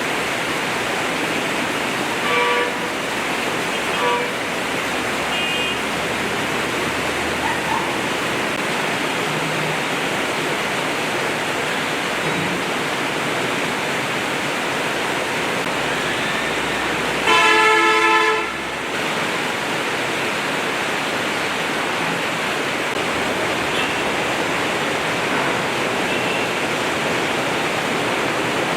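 Heavy rain pouring steadily. A vehicle horn gives two short toots in the first few seconds and a longer, louder honk of about a second and a half about two-thirds of the way through.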